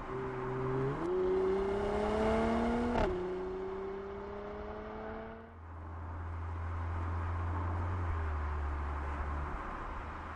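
Mercedes-AMG 3.0L V6 biturbo engine accelerating, its pitch climbing, with a quick upshift about three seconds in (a short crack and a drop in revs) before it climbs again. Just past halfway the revs fall away to a low, steady engine note.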